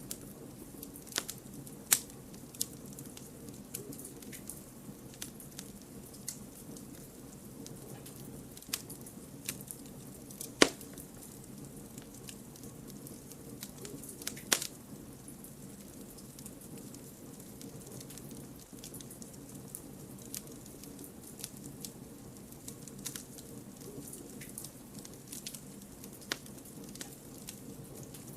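Campfire of burning firewood: a steady soft hiss and rumble of the flames with irregular sharp crackles and pops, a few louder snaps among them.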